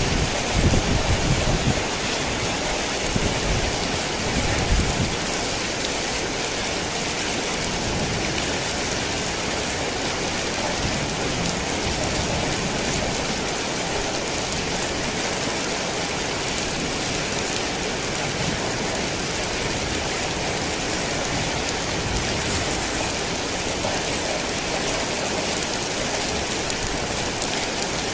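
Heavy rain falling steadily, with a low rumble in the first few seconds.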